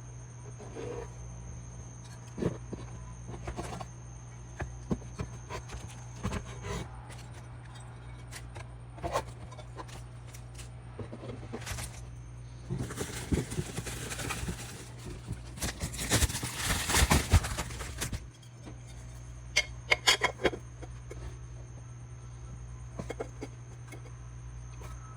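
Scattered clicks and knocks of hand work with tools and parts over a steady low hum, with a denser, louder stretch of clatter for about five seconds in the middle.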